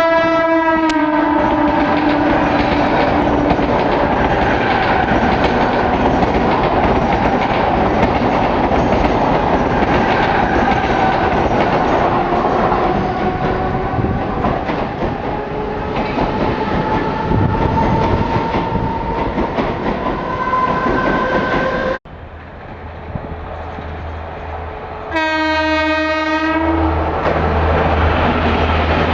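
Express train passing at speed through a station: its horn sounds and drops in pitch as it goes by, followed by about twenty seconds of loud rushing wheel-and-rail noise with clickety-clack. After a sudden break, a train horn blows steadily for about two seconds, then another train rumbles past.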